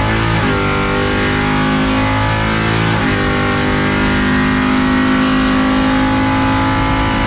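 C10 drag truck's engine running loud at a steady pitch, with brief dips in pitch about a third of a second in and again around three seconds in.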